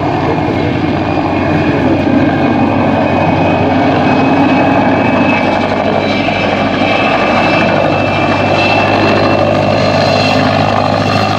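PZL Kania helicopter in flight: a steady fast rotor chop under a high, even whine from its twin turboshaft engines, growing a little louder about halfway through.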